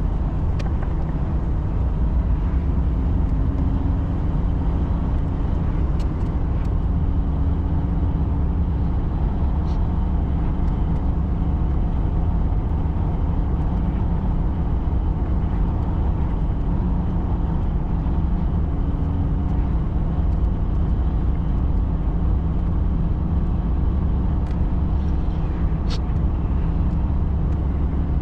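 Truck running steadily, a low, even engine and road rumble with a few faint clicks.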